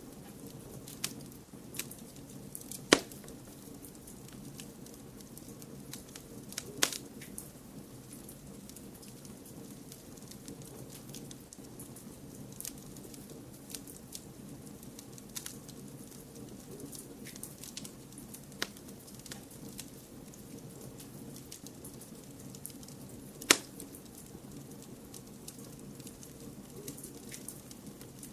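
Wood fire crackling: scattered sharp pops and ticks over a steady low rushing noise. The loudest pops come about three, seven and twenty-three seconds in.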